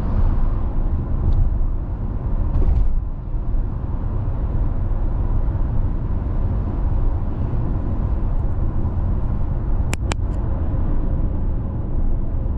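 Car driving: steady low rumble of road and tyre noise. Two sharp clicks come close together about ten seconds in.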